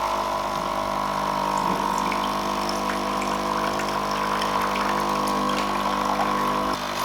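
Nescafé Dolce Gusto capsule coffee machine's pump running with a steady hum, pushing cold water through during the first-use rinse, vibrating hard enough to shake the table it stands on. Water runs into the container beneath.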